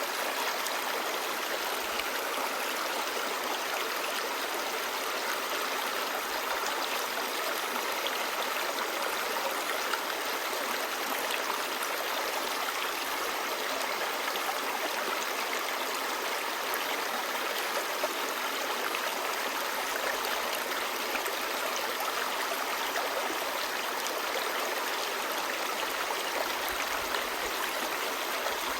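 Clear stream babbling: a steady, even rush of running water flecked with small splashes and gurgles.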